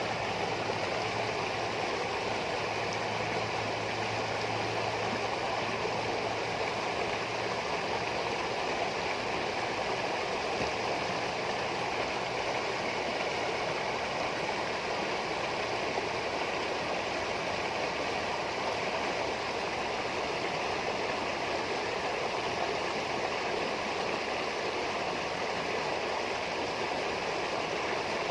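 Running water babbling steadily, a continuous stream-like gurgle.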